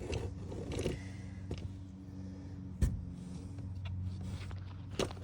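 Steady low hum with two sharp knocks, one about three seconds in and one near the end.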